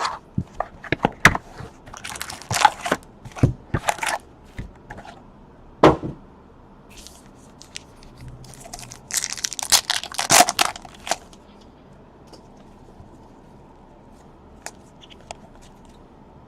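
Trading-card box packaging being torn open and handled: crinkling wrapper, tearing and cracking card stock in quick clusters of clicks and rustles. The sounds die down about eleven seconds in, leaving a few faint ticks.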